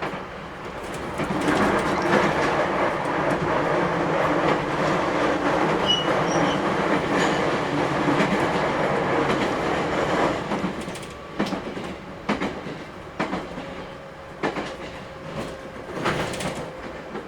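Running noise heard inside an 811 series electric train car on the move. A loud, dense rush builds about a second and a half in and holds for roughly nine seconds. It then drops to quieter running, with sharp clicks from the wheels crossing rail joints about once a second.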